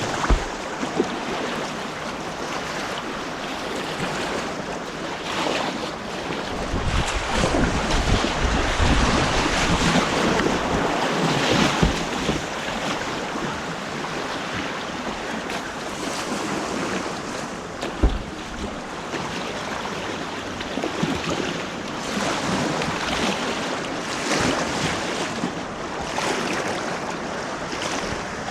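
Rushing white water on an artificial whitewater kayak course, heard close up, with wind buffeting the microphone and a few low thuds.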